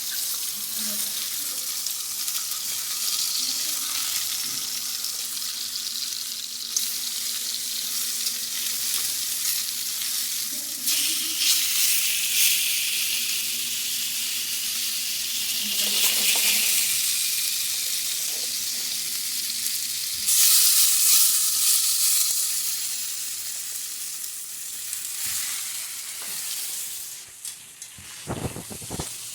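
Steak sizzling in a hot frying pan, a steady hiss that swells louder several times, as when the meat is turned or moved in the fat.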